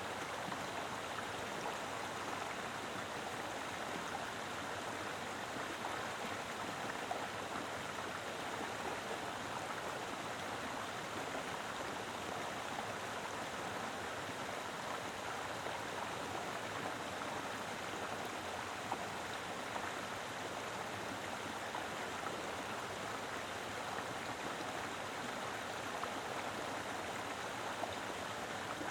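Mountain river flowing steadily over rocks: a full, even rush of running water with no breaks.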